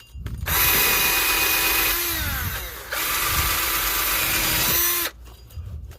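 A wire wheel spun by a power tool, scrubbing rust and grime off a car's rear wheel hub. The motor briefly slows with a falling pitch about two seconds in, picks back up a second later, and stops near the end.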